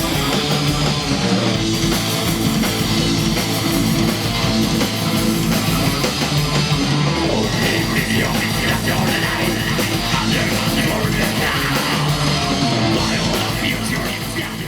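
Heavy metal band playing live, with distorted electric guitars, bass and drums; the music fades down near the end.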